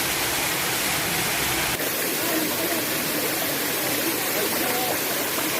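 Steady rush of water from a stream and waterfall pouring over rocks.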